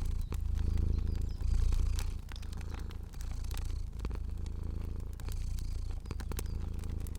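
A domestic cat purring low and continuously, swelling and easing with each breath about once a second, over scattered small crackles of a fire.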